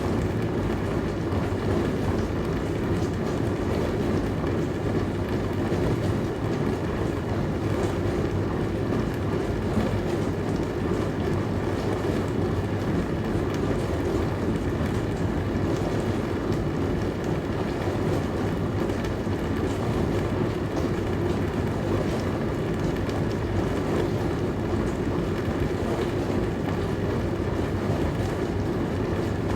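Dishwasher running: a steady low noise with a faint hum in it.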